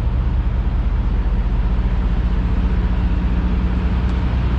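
Semi truck's diesel engine idling steadily, a low even rumble with a fast regular pulse.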